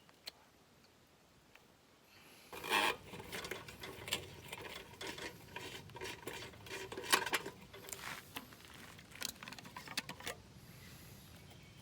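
Camp gear being handled: a run of metallic clinks, knocks and rustles with brief ringing, starting a couple of seconds in and stopping near the end.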